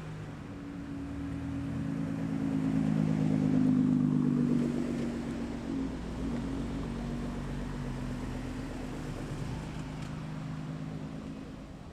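A car engine running as the car drives past, with a steady low note. It grows louder to about four seconds in, then fades.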